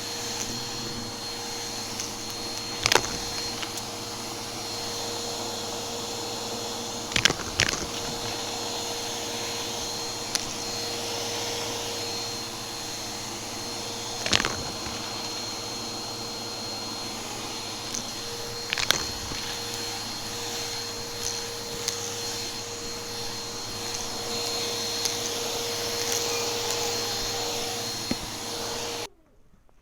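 Vacuum cleaner motor running steadily with a whine, with sharp crackles every few seconds as debris is sucked up; the motor shuts off abruptly near the end.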